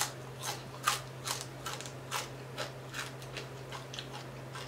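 Crispy fried tilapia being crunched and chewed in the mouth: a run of short, sharp crunches about two a second, loudest in the first two seconds and then fading. A steady low hum lies underneath.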